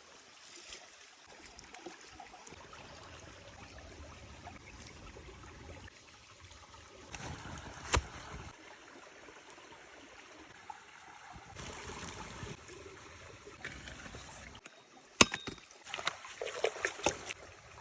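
A stream flowing steadily, with a few sharp knocks or clicks over it, the loudest about three quarters of the way through, and a quick run of clicks near the end.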